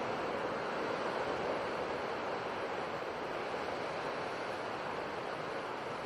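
Steady, even rushing nature ambience like distant surf, with no separate wave surges or other events.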